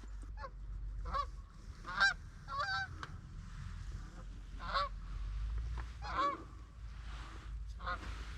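Geese honking, a short call every second or so, about eight in all, from a flock coming in to the decoys.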